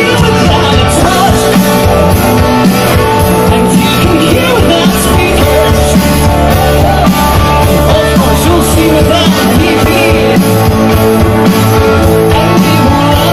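Live rock band playing, with electric guitars, drums and a lead singer, loud and steady throughout.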